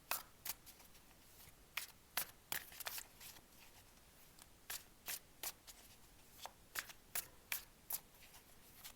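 Tarot cards being shuffled and handled, a series of short crisp snaps spaced irregularly.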